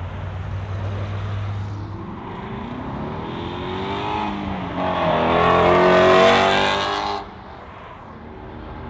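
A muscle car's engine and exhaust idling low, then revving up as the car accelerates away, the pitch climbing over several seconds and loudest near the end before it stops abruptly.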